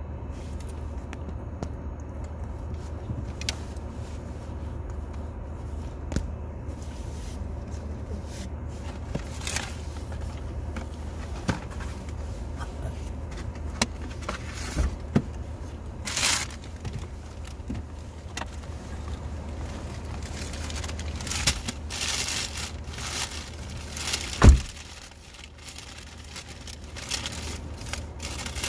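Car engine idling, a steady low hum heard from inside the cabin, with scattered small clicks and rustles. A single loud thump comes near the end.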